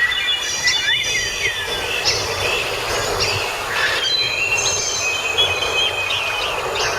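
Steady hiss like rain, with several high-pitched squealing tones over it that are held for a second or more and step and glide in pitch.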